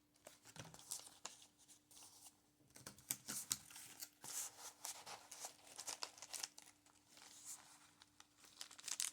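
Faint rustling of paper pages in a large handmade junk journal as they are turned and handled, with many small sharp clicks of stiff paper.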